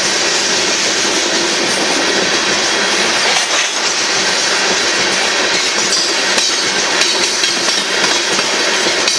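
Union Pacific freight train of loaded aggregate hopper cars rolling past: a steady rumble and clickety-clack of steel wheels on the rails, with a few sharper metallic clanks in the second half.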